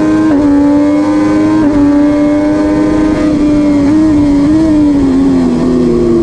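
MV Agusta F3 675's inline three-cylinder engine at high revs, heard onboard with wind rush. The pitch holds high with two brief dips, about a quarter second and a second and a half in, then falls slowly over the last couple of seconds as the revs drop.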